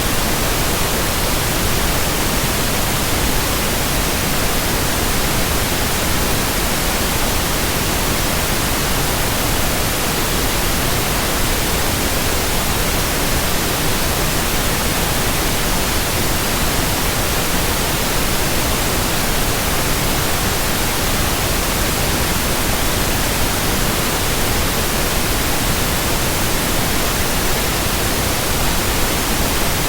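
Steady, unchanging white noise: an even hiss that covers low to high pitches alike, with no hum, beat or swish of turning blades in it.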